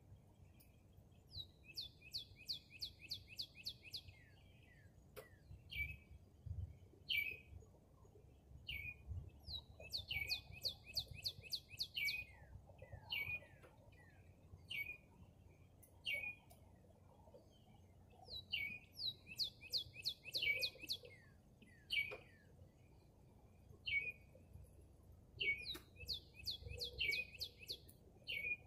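A songbird singing: quick trilled runs of rapid high notes lasting two to three seconds, repeated about every eight seconds, with single short chirps in between. A few faint clicks sound now and then underneath.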